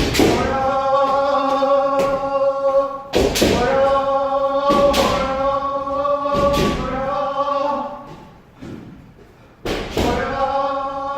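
Several kendoka shouting long held kiai as they strike, with sharp cracks of bamboo shinai and stamping feet on the wooden floor coming every second or two. The shouting and striking stop for about a second and a half near the end, then start again.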